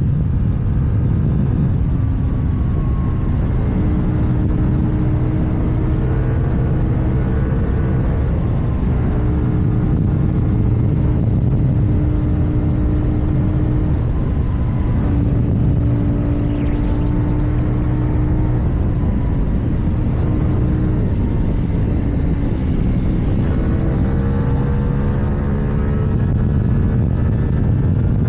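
KTM Duke 790's parallel-twin engine running through an Akrapovic exhaust at a steady cruise, with a low rumble under it and the pitch rising a little near the end.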